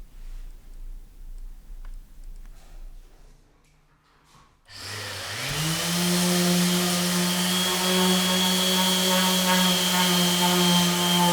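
An electric power tool motor starts up about halfway through, spins up quickly and then runs steadily at full speed with a hiss. Before it, a few faint clicks of handling.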